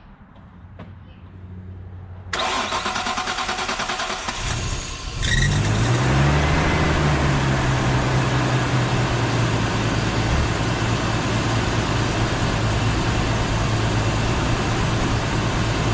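Nissan Skyline R33's RB25DET turbocharged straight-six cranking on the starter for a few seconds, catching about five seconds in, flaring up and then settling to a steady idle through a new exhaust. It is a cold start after months of sitting unused.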